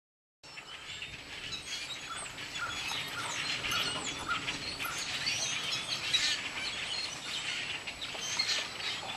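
A large flock of birds calling all at once: a dense, continuous chatter of many short chirps and whistles. It starts abruptly about half a second in.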